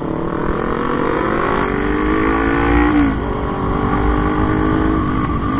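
Motorcycle engine accelerating hard through the gears. Its note climbs, drops at an upshift about three seconds in, then climbs again to a second upshift at the end, over a low wind rumble.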